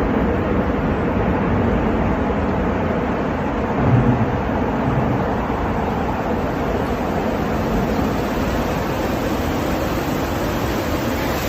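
Steady rushing roar of strong storm wind, with a brief low buffet about four seconds in.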